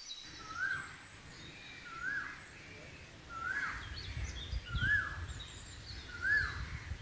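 A bird repeating a short whistled note that rises and falls, five times at even intervals of about a second and a half. Fainter high chirps from other birds sound behind it.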